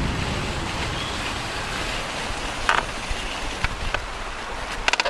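Steady wind and rolling noise from a ride in progress, rumbling low on the microphone, with a few light clicks near the middle and end.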